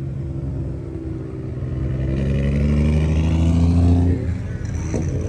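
A car engine accelerating, its pitch and loudness rising for about two seconds before dropping off sharply about four seconds in.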